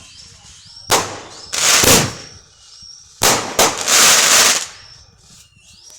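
Fireworks exploding: a sharp bang about a second in, then two longer loud bursts of bangs and crackle, around two seconds in and from about three to four and a half seconds in.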